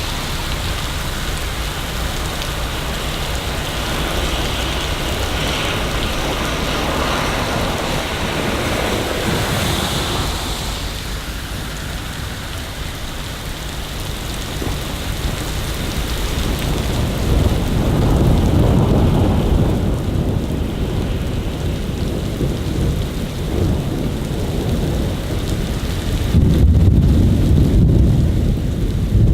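Steady rain hissing, with two long rolls of thunder in the second half; the second, near the end, is the loudest.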